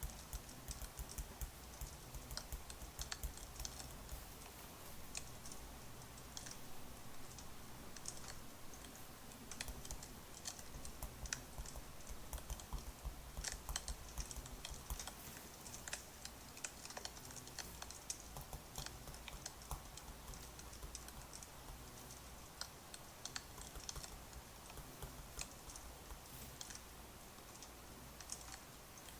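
Quick, irregular light clicks and crackles over a low steady hum.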